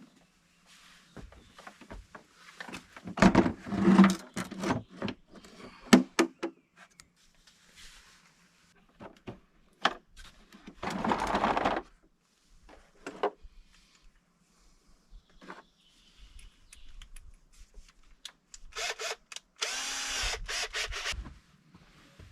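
A small power tool running in a few short bursts, with knocks and clattering of tools and parts in between.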